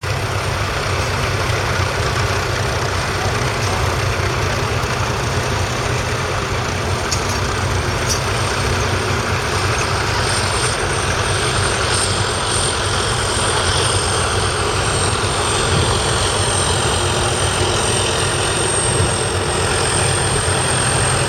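John Deere 6130R tractor's 4.5-litre four-cylinder diesel engine running steadily, with a thin high whine over the low engine note that grows plainer about halfway through.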